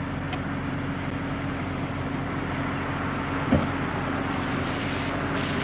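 A vehicle engine running steadily at an even idle, with one short knock about three and a half seconds in.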